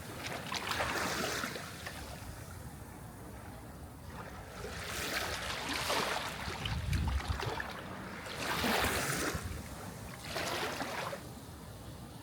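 Sea waves washing ashore, four swells of hissing surf over a steady low wash, with a deeper rumble of a breaking wave about seven seconds in.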